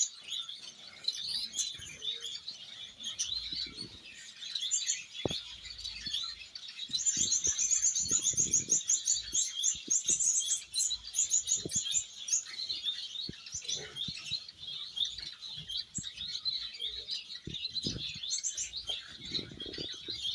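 Small birds chirping and twittering continuously, several calling at once, with a louder stretch of rapid repeated notes in the middle. A few soft knocks sound underneath.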